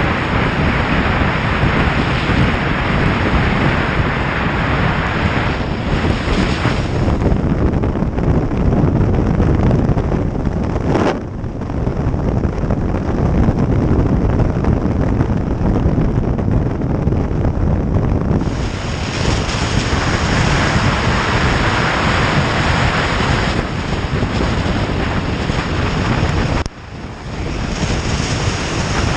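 Loud, steady wind rush over the microphone of a moving motorcycle, with engine and road noise beneath it. The rush drops away briefly twice, about 11 seconds in and again near the end.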